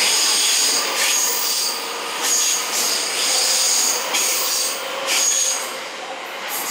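JR West 683 series electric express train departing, its cars rolling past close by with a steady high-pitched wheel squeal and a few clacks from the wheels. It grows a little quieter near the end as the tail car goes by.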